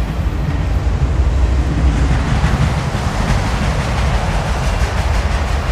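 Electric toy high-speed train running along plastic track, its motor and wheels whirring louder as it draws near. A low rumble of wind on the microphone lies beneath.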